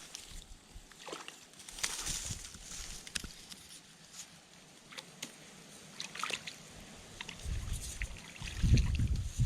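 Small splashes and trickles of river water as a caught walleye is held in the shallows to be released. A low rumble comes in near the end.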